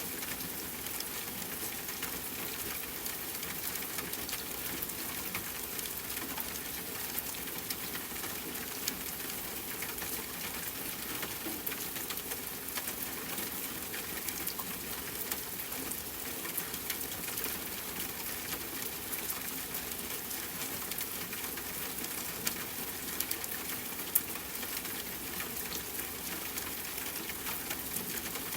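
Steady rain with a campfire crackling: an even hiss dotted with small sharp pops, a few louder ones late on.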